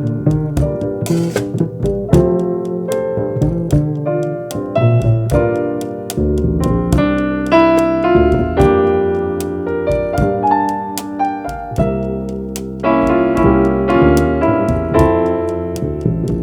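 Jazz piano trio playing, with the keyboard carrying the tune over bass and drums.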